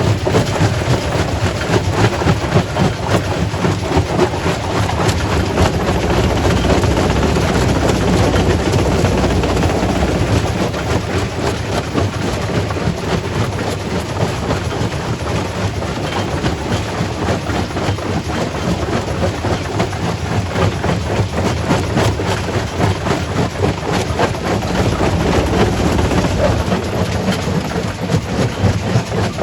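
Quarry primary rock crusher running under load: a steady heavy machine noise with a dense, continuous clatter of rock cracking and knocking, a little louder in the first few seconds.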